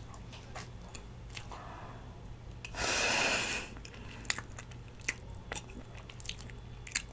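Close-miked mouth sounds of someone chewing a mouthful of dense cheesecake, with a few small clicks scattered through. A brief burst of louder noisy sound comes about three seconds in.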